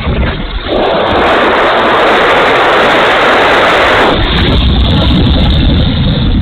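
Strong wind buffeting the microphone in a low rumble. A louder rushing blast comes in about a second in and cuts off after about three seconds.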